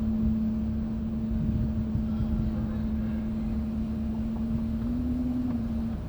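Steady hum of a boat motor at one low pitch, lifting slightly about five seconds in and stopping near the end, over a low rumble of wind and water.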